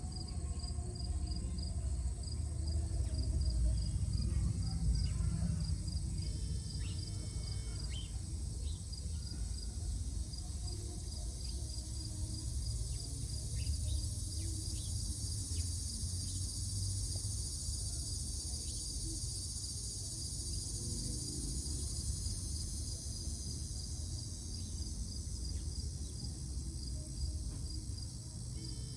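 Insects chirping steadily in a high continuous drone, with a cricket-like pulsed note repeating a few times a second, over a low rumble.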